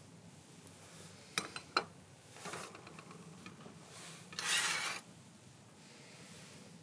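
Cookware being handled: two sharp metal clinks, a short scrape, then a longer, louder scraping rub about four and a half seconds in.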